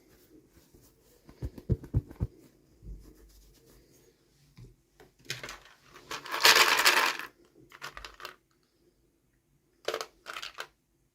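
Toy packaging being handled and opened: a few soft knocks, then a loud rustle of packaging lasting about a second and a half, and two short rustles near the end.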